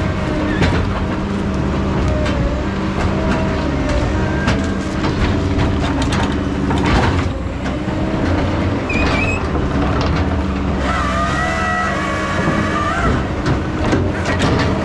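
Heavy logging machinery running: a steady engine drone with metal clanking and squealing, including a wavering high squeal about eleven seconds in.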